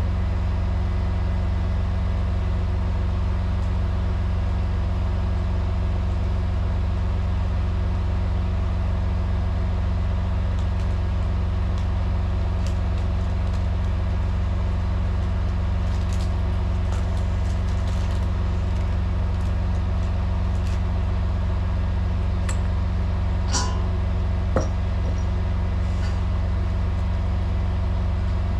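Semi truck's diesel engine idling with a steady low drone, with a few light clicks and taps from work in the cab about two-thirds of the way through.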